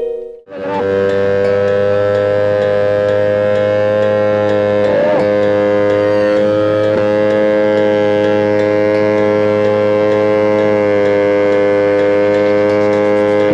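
A loud, unchanging drone of several held pitches that sets in just after the start and holds steady, with a brief wavering about five seconds in.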